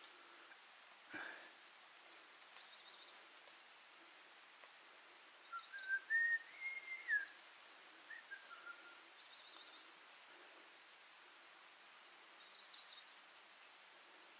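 Forest birds calling over a quiet background: short, very high rapid chirp series repeated every few seconds, single sharp chirps, and a clear whistled phrase that rises and then falls about halfway through. A soft knock about a second in.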